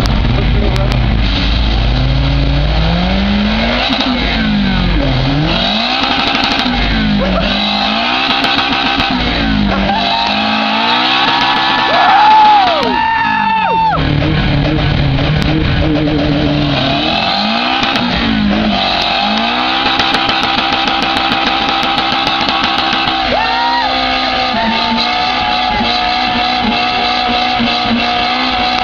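Boosted Honda K24 inline-four in a Civic, revved hard in fourth gear through a burnout with the tyres spinning. The engine pitch rises and falls again and again, climbs to its highest and loudest about twelve seconds in, then holds fairly steady near the end.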